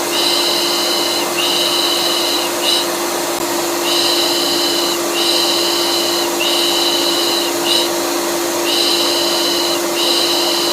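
Vacuum cleaner running steadily with a constant hum, used as soothing noise for a colicky baby. A looped 'pış pış' shushing rides over it in a regular rhythm: three long shushes and a short one, then a pause, repeating about every five seconds.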